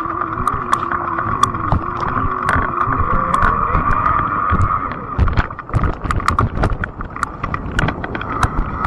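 Fat-tire e-bike in motion: a steady hum runs throughout, with a lower tone that wavers in pitch during the first half, under frequent sharp clicks and rattles.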